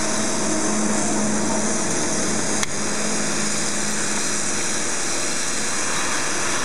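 Omori Machinery inverted pillow packaging machine running: a steady mechanical rush with a low hum that fades out about four and a half seconds in, and a single sharp click about two and a half seconds in.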